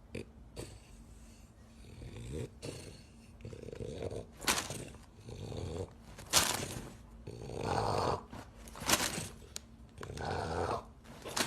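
A sleeping pet snoring: rasping breaths come about every one and a half to two seconds and grow louder from about four seconds in.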